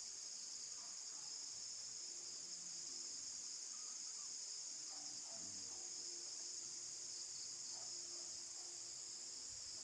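Crickets and other night insects trilling in a steady high-pitched chorus.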